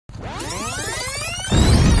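Motorcycle engine accelerating, its pitch rising steadily. About one and a half seconds in, a much louder low rumble comes in.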